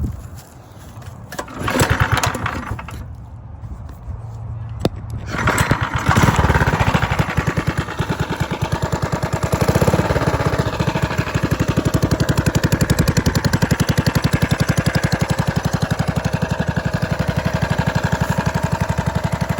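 Harbor Freight Predator 212cc Ghost single-cylinder four-stroke kart engine on a mini bike being started: a short first attempt about two seconds in, then it catches about five seconds in and keeps running with an even, rapid firing beat, rising briefly around ten seconds in.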